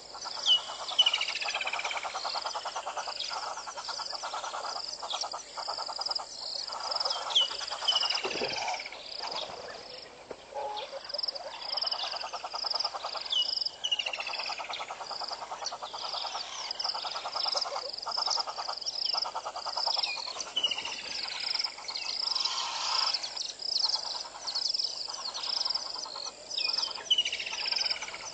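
Wild birds calling at dawn, with short high notes repeated over and over and several descending whistles, over a continuous pulsing trill of a lower chorus.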